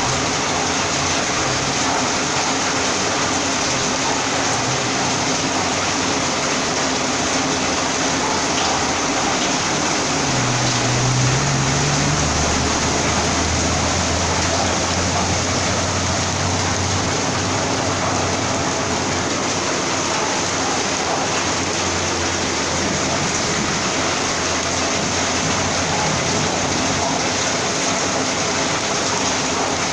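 Heavy rain pouring steadily, with a low hum coming in about ten seconds in and fading a few seconds later.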